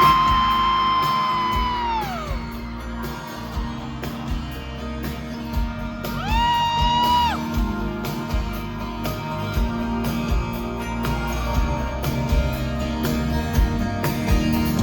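A live pop band playing the instrumental lead-in to a song, with a steady beat, crowd noise and two loud, held high whoops: one in the first two seconds and another about six seconds in, each sliding up at the start and falling away at the end.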